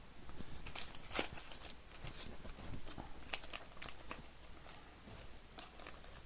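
Trading card being put into a plastic sleeve and hard case: scattered light plastic clicks and crinkles.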